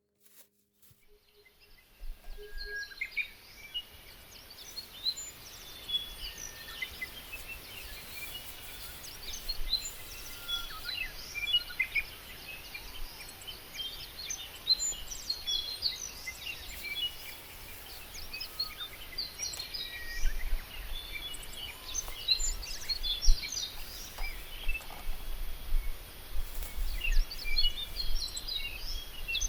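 Many birds chirping and singing, with short, high calls overlapping one another, starting about two seconds in. A low rumble underneath grows stronger in the second half.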